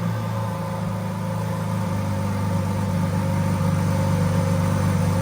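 Lamborghini Countach LPI 800-4's 6.5-litre V12 idling steadily just after start-up, the revs settling down from the start-up flare.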